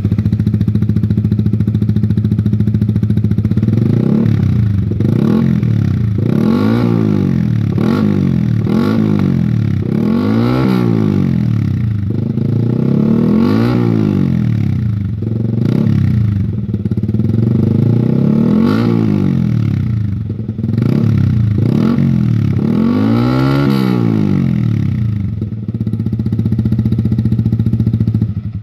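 Yamaha XSR 155's single-cylinder engine running through a double-silencer exhaust: idling, with the throttle blipped in short revs about ten times. The engine cuts off at the very end.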